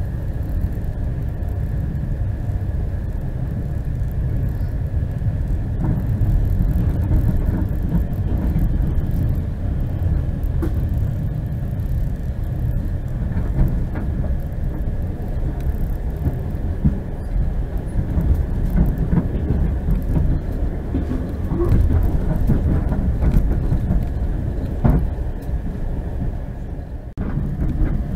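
Passenger train running along the line, heard from inside the carriage: a steady low rumble of wheels on rails, with a faint steady high tone and a few scattered clicks.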